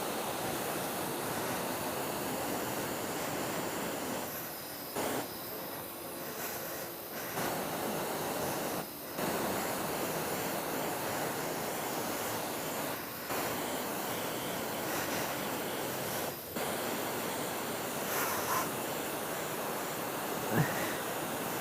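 High-pressure water spray from a wash lance rinsing a motorcycle: a steady hiss that breaks off for a moment several times. A brief squeak near the end.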